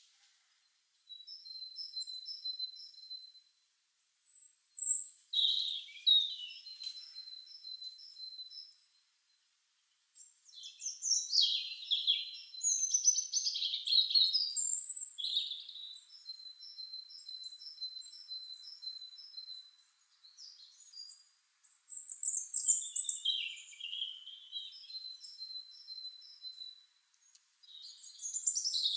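Songbirds singing in high-pitched phrases: runs of short evenly spaced notes, about five a second, broken by louder chattering, twittering bursts, with brief complete silences between some phrases.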